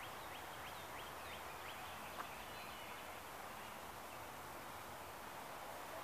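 A bird calling a quick run of about eight short, high chirps over the first two seconds, against a steady background hiss; a single sharp click a little after two seconds in.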